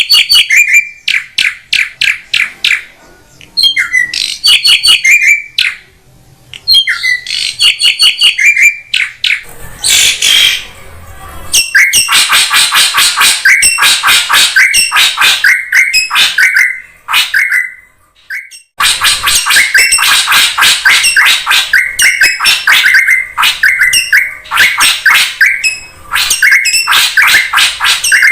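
Drongo calls: loud, rapid runs of repeated sharp notes, broken by harsh, scratchy chattering about ten seconds in and by a couple of short pauses. This is a bird-trapping lure (pikat) recording of a calling drongo.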